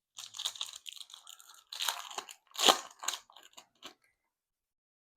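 Plastic trading-card pack wrapper crinkling and crackling as a pack of 2024 Topps Chrome Disney cards is torn open, a quick run of sharp crackles for about four seconds, loudest a little past the middle.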